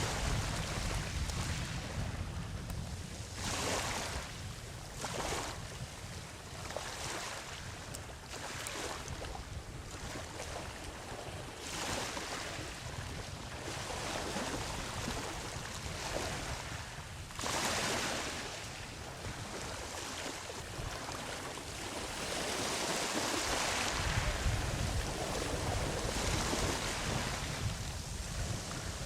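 Ocean surf on a beach: waves breaking and washing in, in repeated surges of hiss that rise and fall every few seconds over a steady low rumble. A longer, fuller wash comes near the end.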